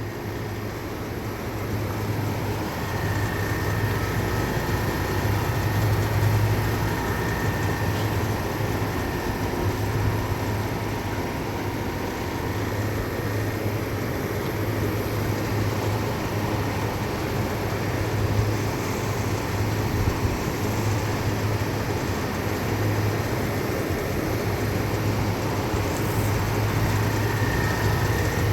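Sanyo 30-horsepower refrigeration unit with twin 15 hp compressors running steadily while refrigerant is being charged: a strong low hum over a haze of fan noise, with a faint high whine that comes and goes.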